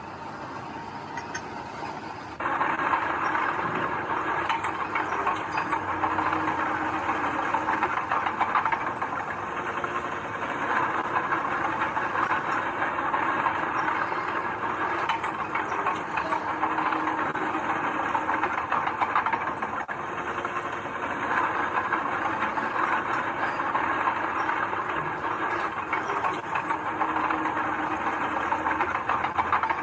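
Heavy construction machinery at work: a diesel engine running with a dense clattering, hissing noise that comes in abruptly about two seconds in and carries on, rising and falling a little.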